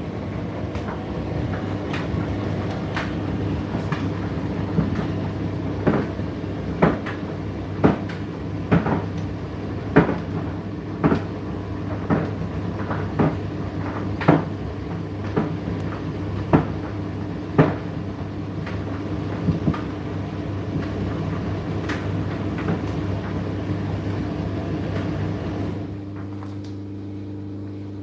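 Indesit IDC8T3 condenser tumble dryer running: a steady motor hum with sharp knocks about once a second as the load tumbles in the turning drum. Near the end the knocking stops and the running sound drops to a quieter hum.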